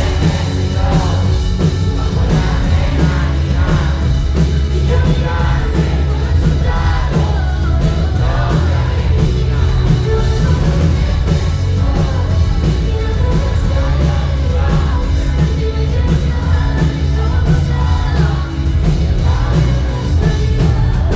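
Live concert music: a singer over a loud backing with heavy, steady bass.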